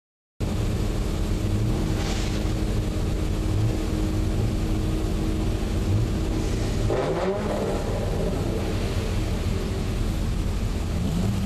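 Car engine running steadily at idle, with a brief rising rev about seven seconds in.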